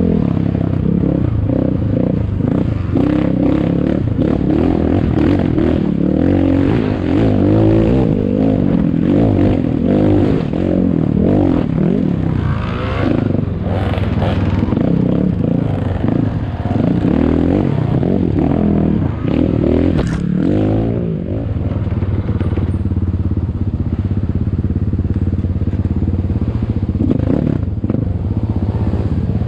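ATAKI DR 250 enduro motorcycle engine revving up and down again and again under riding load, with rattles and scrapes from the bike. About two-thirds of the way through it settles into a steadier, lower note.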